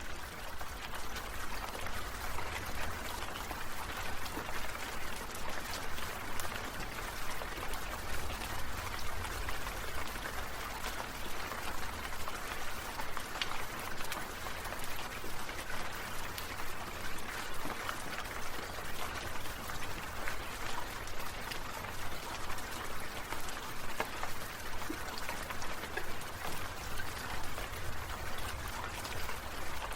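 Water sprinklers spraying, a steady rain-like hiss of droplets with a regular pulsing swell in level.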